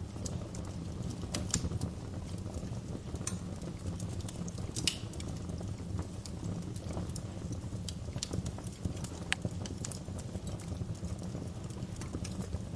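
Wood fire burning in a fireplace: a low steady rumble with irregular sharp crackles and pops, one of the louder pops about five seconds in.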